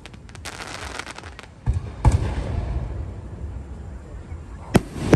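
Aerial fireworks going off: a fast crackling of many small pops for the first second or so, then two deep booms about two seconds in and a single sharp bang near the end.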